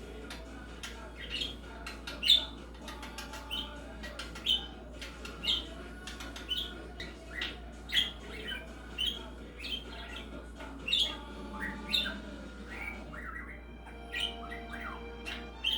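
Pet budgerigar chirping over and over in short, sharp calls, about one or two a second, with a few held whistling tones near the end.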